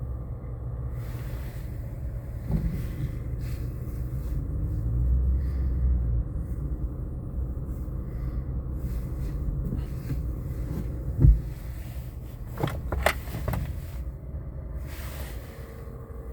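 Low steady rumble of a pickup truck's engine running, with a single thump about eleven seconds in and a few sharp clicks shortly after.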